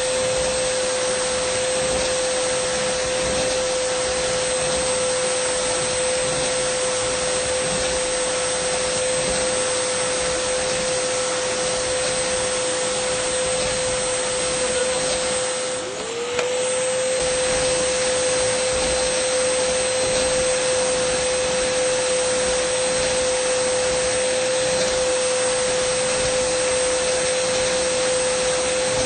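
Dyson vacuum cleaner running steadily: a constant rush of air with a steady whine. About halfway through it dips briefly, its pitch sagging and climbing back.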